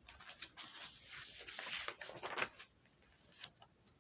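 Faint rustling and scattered light clicks, a handling noise, most of it in the first two and a half seconds, then nearly still.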